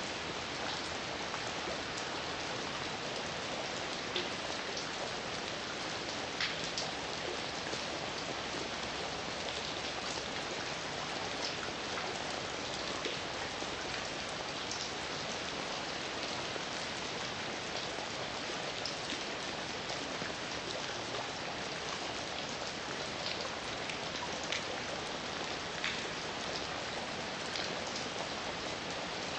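Steady rain falling, with scattered sharper drop hits standing out from the even hiss.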